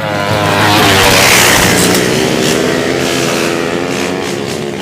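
Drag-racing motorcycle engine running at high revs, growing louder to a peak about a second in and then slowly easing off.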